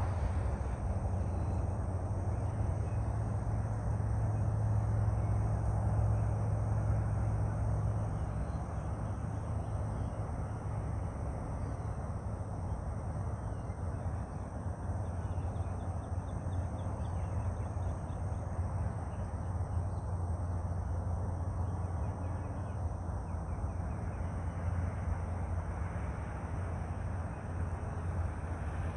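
Outdoor ambience: a steady low rumble with faint bird calls now and then.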